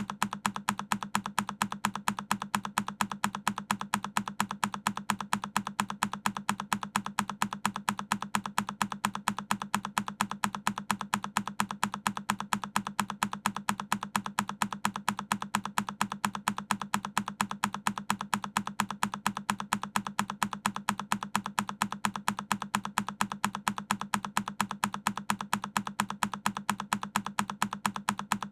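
A single key on a Keychron K10 mechanical keyboard pressed over and over, the same click repeating at an even pace several times a second.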